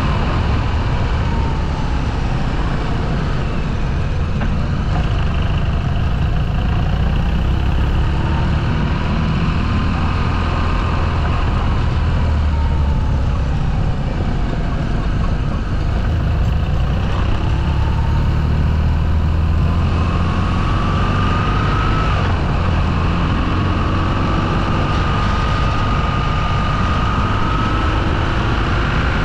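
Motorcycle engine running on the move, its pitch slowly rising and falling with the throttle, over a steady low rumble.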